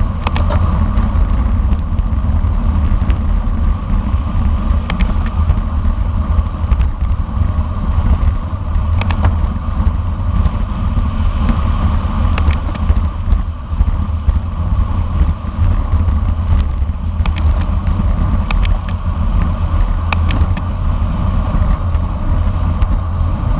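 Strong wind rumble on an on-board camera microphone at riding speed, with steady road and tyre noise and scattered sharp clicks and rattles.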